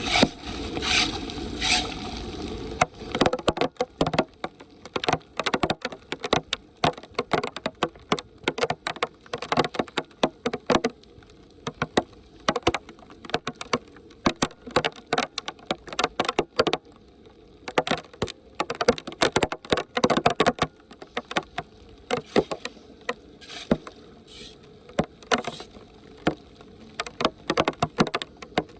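Tool scraping and clattering while clearing debris from a clogged street drain grate: a steady scrape for the first few seconds, then a long run of irregular sharp clicks and knocks.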